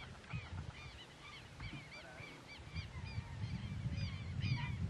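A bird calling over and over in short, harsh, arched notes, about two or three a second, getting busier near the end, over a low rumble.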